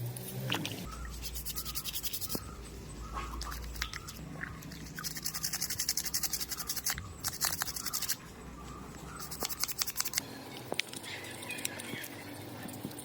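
Small electric motor buzzing in short runs of a second or two, switched on and off four times, with clicks and knocks of handling in between.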